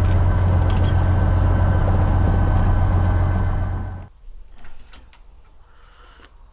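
Cessna 172's Continental O-300 six-cylinder engine and propeller running at a steady drone. It cuts off abruptly about four seconds in, leaving a quieter stretch with a few light clicks and knocks.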